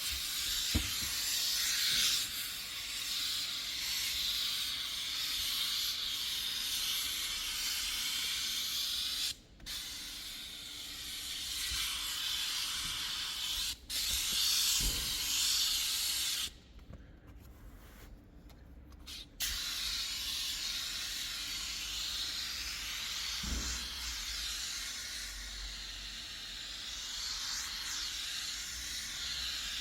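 Pressurised cleaning spray hissing steadily, broken off several times by abrupt cuts.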